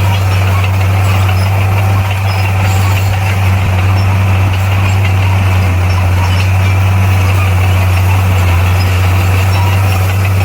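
Bulldozer's diesel engine running steadily, a low, even drone with no change in pitch.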